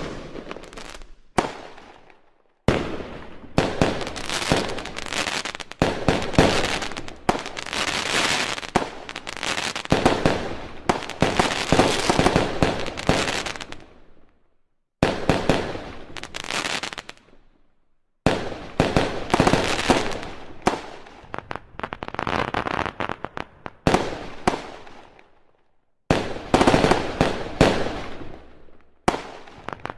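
Fireworks going off in dense barrages of rapid bangs and crackling, each lasting several seconds and starting abruptly, with short silent breaks between them.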